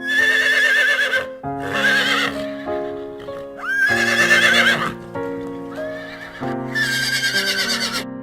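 Horse neighing four times, each whinny a high, shaky call about a second long, over background piano music.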